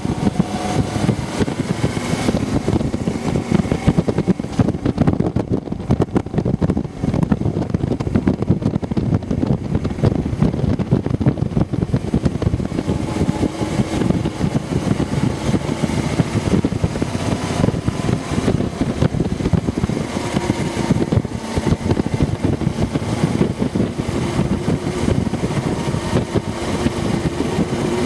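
Harley-Davidson FLHTC's air-cooled V-twin engine running on the move, its pitch drifting up and down a little through the bends, under a steady rush of wind and road noise.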